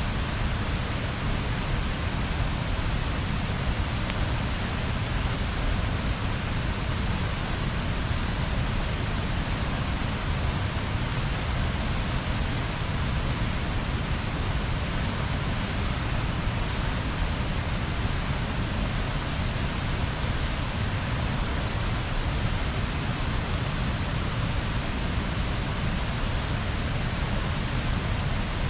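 Steady rushing noise, even and unbroken, with no distinct crackles or pops.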